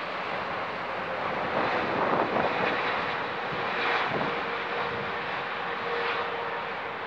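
Jet engines of a Boeing 777-300ER on its landing, a steady rumble and hiss with a faint whine.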